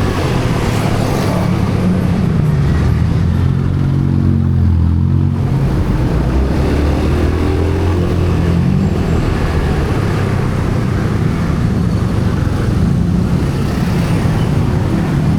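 Motorcycle engine running under way, heard from on board, its pitch rising and falling as the rider speeds up and eases off.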